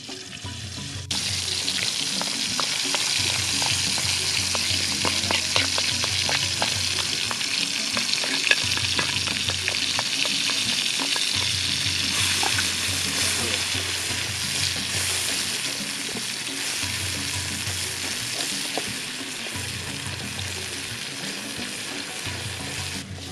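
Pounded spice paste of chilli, garlic, shallot and kencur sizzling as it is sautéed in hot oil in a black iron skillet, stirred with a wooden stick. The sizzle starts suddenly about a second in as the paste hits the oil, a dense crackling hiss that slowly dies down as it cooks.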